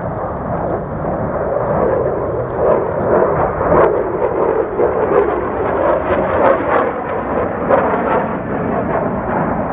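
Airshow planes flying over in close formation: a continuous loud jet roar that swells through the middle and eases off near the end.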